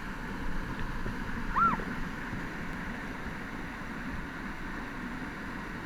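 Steady rush of a waterfall, with some wind on the microphone. About one and a half seconds in there is a short high call.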